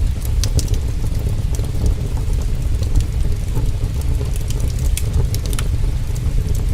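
Heavy rain with a deep, steady low rumble, layered with a crackling wood fire giving scattered sharp snaps and pops.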